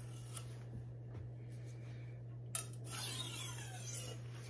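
Steel blade of a Wusthof Classic chef knife worked by hand on a sharpening stone: a sharp clink about two and a half seconds in, then a faint scraping rub of the edge across the stone.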